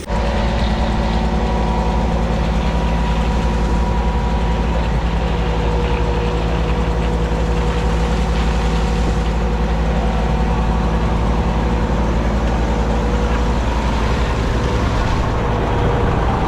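Diesel engine of a concrete boom pump truck running steadily and loudly. It cuts in suddenly at the start and then holds an even pitch and level.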